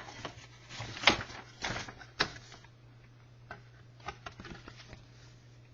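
A few sharp clicks and knocks, the loudest three in the first couple of seconds and fainter ones later, over a steady low electrical hum.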